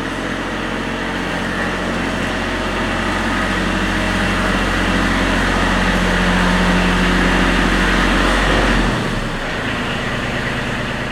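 Kubota B2320 compact tractor's diesel engine running steadily; near the end its note changes and the level drops.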